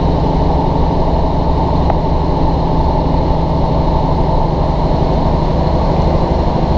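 Steady drone of a diesel train's engine with wheel and rail noise, heard from inside the passenger carriage while the train runs along at speed.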